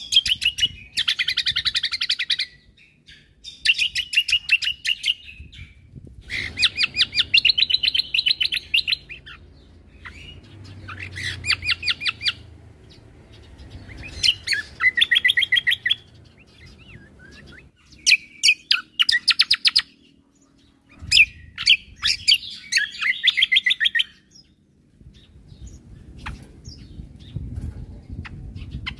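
Cucak kombo (kecial kombo) songbird singing vigorously in repeated bursts of rapid, stuttering notes. Each burst lasts one to three seconds, with short pauses between.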